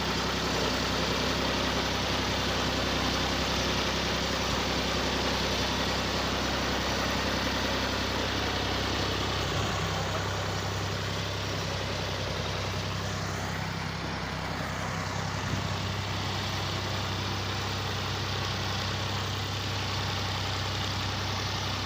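Tractor diesel engine running steadily under a rotavator, with a broad mechanical clatter and hiss. Its note shifts slightly about ten seconds in.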